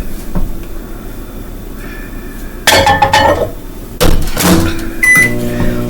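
A coffee mug clinks and the microwave door knocks shut twice. A little before the end a short keypad beep sounds and the microwave oven starts running with a steady hum.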